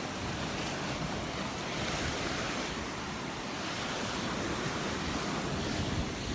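Gulf waves breaking and washing up on a sandy beach, a steady surf noise with gentle swells, with some wind on the microphone.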